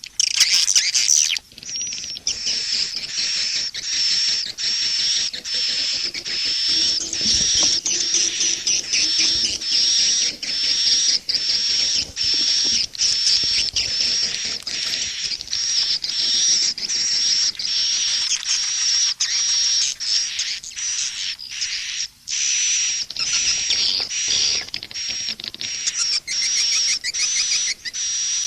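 Edible-nest swiftlet calls from a swiftlet-farming lure track: dense, high-pitched chattering twitters that repeat with short breaks more than once a second. It is the 'SP' (calling) type of track, played to draw swiftlets into a swiftlet house.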